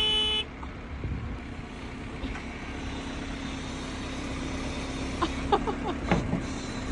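A tractor horn sounds briefly and cuts off, then the tractor's engine runs steadily, with a few sharp clicks about five seconds in.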